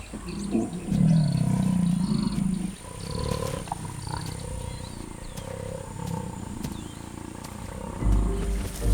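Jaguars growling while mating, a loud low growl about a second in, followed by quieter growls. Birds chirp faintly in the background, and music comes in near the end.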